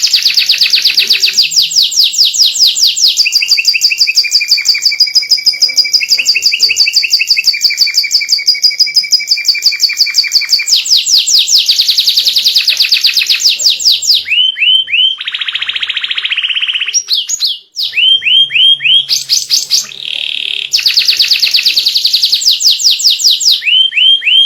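White domestic canary singing nonstop in loud, fast trills of rapidly repeated notes, some of them upward glides, with a brief harsh buzzy phrase about two-thirds of the way through.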